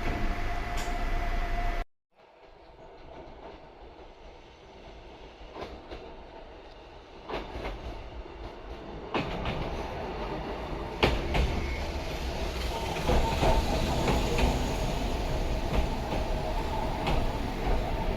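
Narrow-gauge electric train with nose-suspended traction motors. The sound cuts off abruptly about two seconds in, then the train gets under way and grows steadily louder, with a rising motor tone and wheels clicking over rail joints.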